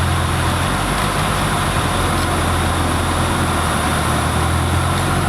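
Nissan 350Z's V6 engine idling with the HVAC blower pushing air out the defroster vents: a steady low hum under a constant rush of air.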